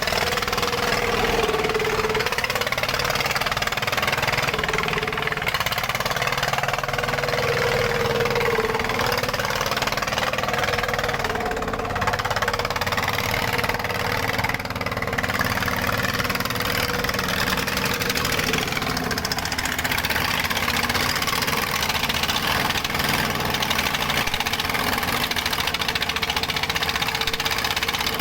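Dongfeng diesel engine running steadily and without letup, with a wavering whine on top of its running.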